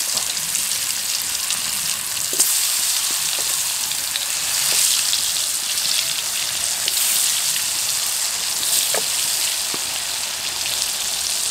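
Potato pieces deep-frying in hot mustard oil in an aluminium kadai: a steady sizzle with a few sharp crackles.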